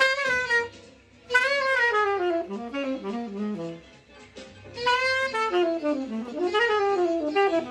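A saxophone plays a fast bebop line in two phrases, with a short break a little past the middle.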